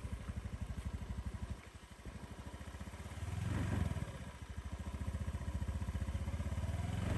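Small motorcycle engine running with an even, rapid low putter, dipping briefly about two seconds in and swelling louder for a moment around three and a half seconds.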